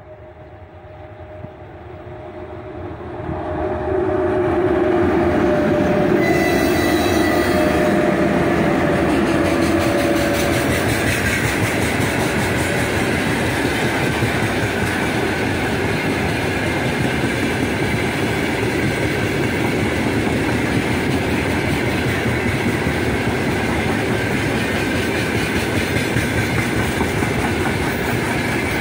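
A heavy freight train behind a four-unit 2ES5K 'Ermak' electric locomotive set approaches and passes close by. The sound swells over the first few seconds, with a whine from the locomotives that drops in pitch as they go by. A long steady rumble and clatter of the wagons' wheels on the rails follows.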